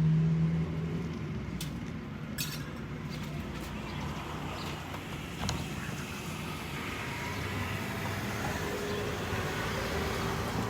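Road traffic going by, with one vehicle's low engine hum loudest at the start and fading after about a second, plus a few light clicks.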